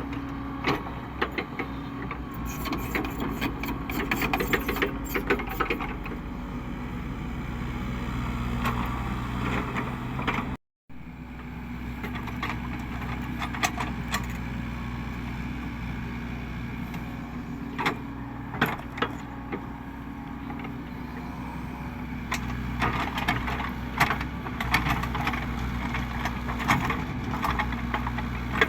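Caterpillar 307E2 mini excavator's diesel engine running steadily, with frequent sharp clanks and knocks from the working machine. The sound drops out abruptly for a moment about eleven seconds in.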